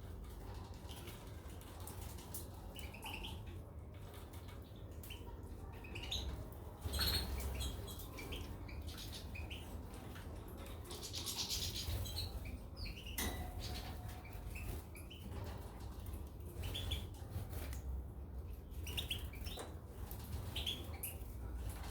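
Caged small finches giving short, scattered chirps, with frequent light clicks and a brief hiss near the middle.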